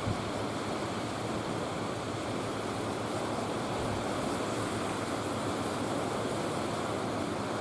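Steady rush of sea water and wind, the even wash of the sea along a large car ferry under way.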